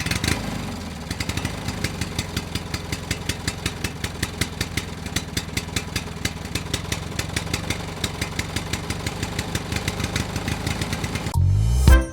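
An engine idling steadily with a rapid, regular ticking. Music starts near the end.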